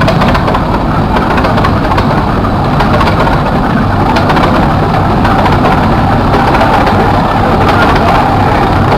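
Large antique gas tractor engine running steadily, its exhaust giving a rapid stream of beats.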